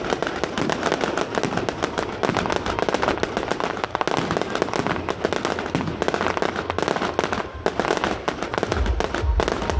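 Fireworks display: aerial shells bursting with dense crackling stars, an unbroken rapid run of pops and bangs. A deep low rumble comes in near the end.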